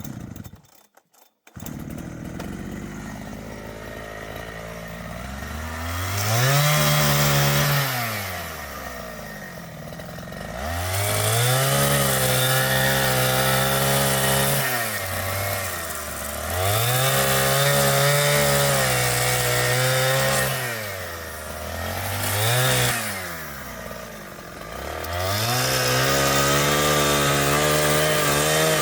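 Two-stroke chainsaw running, revved up to full throttle and let back down to idle about five times, each run lasting a few seconds, as in cutting through timber. It holds at full throttle near the end.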